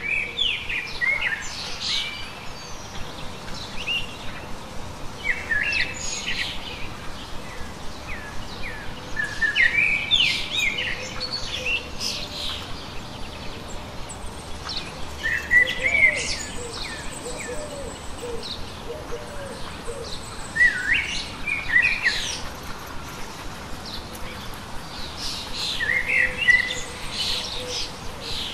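Birds singing: phrases of quick rising and falling chirps come every few seconds over a steady outdoor hiss.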